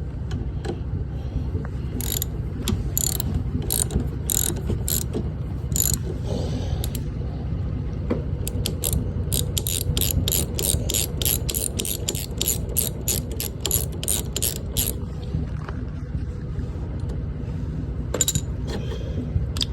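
Hand ratchet wrench clicking as it turns a fastener on a lawn mower wheel. The clicks come in short bursts, then in a quick even run of about three a second in the middle, over a steady low hum.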